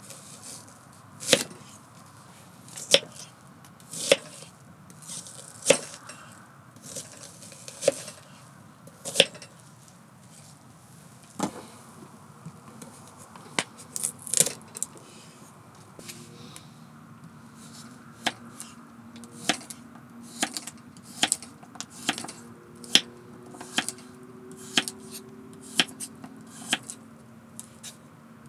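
Knife chopping on a wooden cutting board: sharp single strokes about every second and a half, then quicker, lighter strikes in the second half. A faint steady low tone sets in about halfway.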